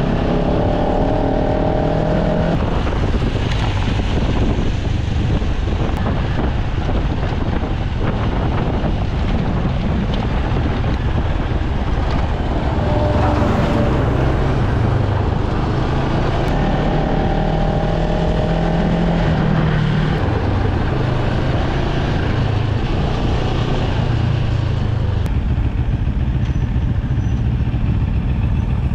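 Motorcycle engine running while under way, with a loud, steady rush of noise and the engine's pitched note coming and going several times.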